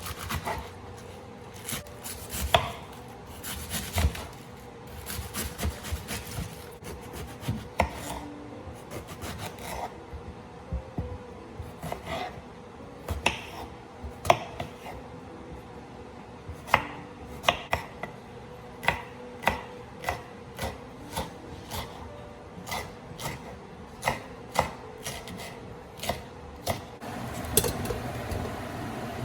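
Kitchen work: irregular sharp knocks and scraping on a hard surface, over a steady faint hum.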